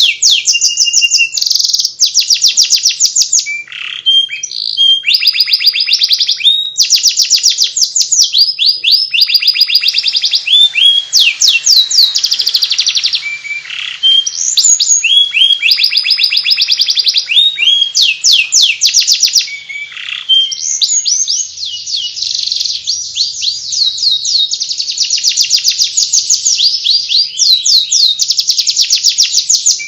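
Domestic canary singing nonstop in the fast, chattering 'ngeriwik' style: rapid high trills and runs of quickly repeated sweeping notes, with brief breaks.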